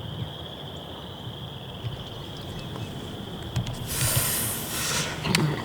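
Outdoor woodland ambience with a steady high-pitched trill from an insect or frog chorus. A few sharp clicks come about three and a half seconds in, then a loud rushing noise lasting about a second.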